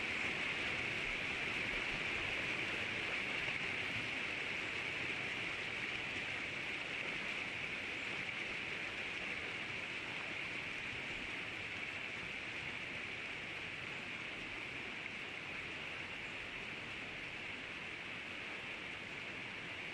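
Steady rushing hiss of flowing river water, growing slightly quieter over the stretch.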